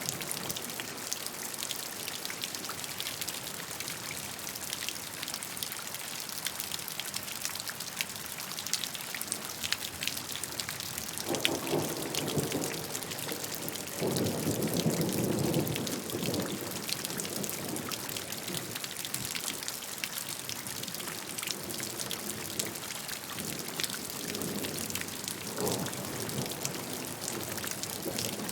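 Steady rainfall, a dense patter of drops hitting a surface. Low rumbles of thunder come about eleven and fourteen seconds in, and more faintly near the end.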